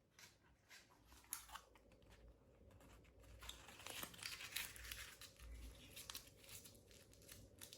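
Faint, irregular rustling and crinkling with scattered light clicks, like slips of paper being handled.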